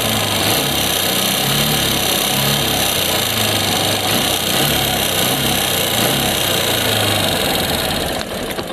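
Suzuki Gixxer SF FI's single-cylinder engine running with a loud mechanical clatter and a low note that rises and falls a little. The noise comes from loose, unadjusted tappets (excess valve clearance) at about 9,000–10,000 km, which the mechanic says has also affected the timing chain. The sound drops away near the end.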